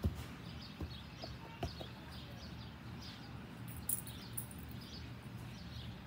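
A bird chirping in the yard, short falling high notes about twice a second, over a steady low outdoor hum. A few dull thumps break in, the sharpest one right at the start.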